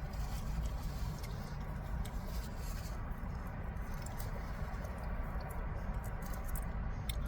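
A person chewing a mouthful of burrito, with small wet mouth clicks, over a steady low rumble.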